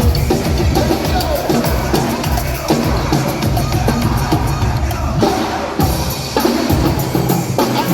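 Live percussion band drumming a busy, driving rhythm over amplified music, with bass drum and other drums struck in quick succession.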